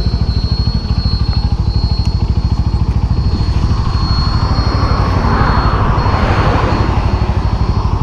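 Motorcycle engine running on the move, with a fast, even low pulsing. Wind rushes over the microphone and swells in the middle.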